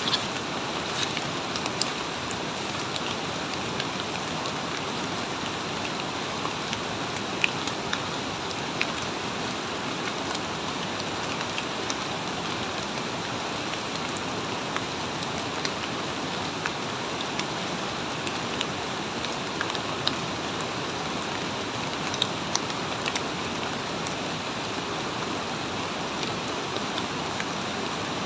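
Heavy rain falling steadily, an even hiss with scattered sharp taps of single drops hitting close by.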